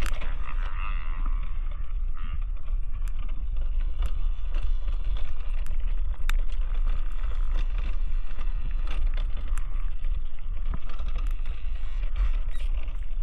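Wind buffeting the microphone while riding an electric dirt bike, a steady low rumble with scattered clicks and rattles from the bike and track; no engine note.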